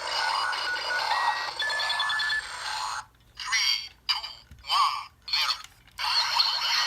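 Electronic sound effects from a DX Wing Booster toy blaster (Rocket Dagger combined with the Wing Trigger), played through its small speaker. Steady electronic tones with beeping come first. About three seconds in, four short separate sounds follow, and a dense noisy blast sound starts about six seconds in.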